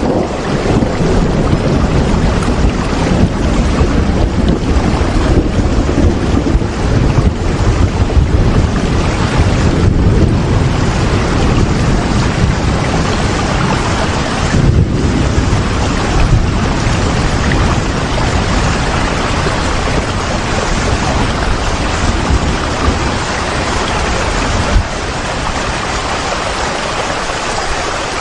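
Steady, dense rain noise with a heavy rumbling low end like wind, surging a little and easing slightly about 25 seconds in.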